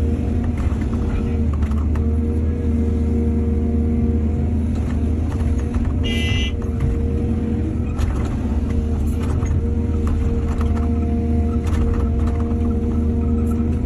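Excavator's diesel engine running steadily, with scattered knocks and clatter from the work. A brief high-pitched tone sounds about six seconds in.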